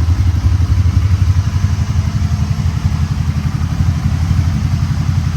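Can-Am Spyder three-wheeled motorcycle engine idling steadily, with a fast even throb.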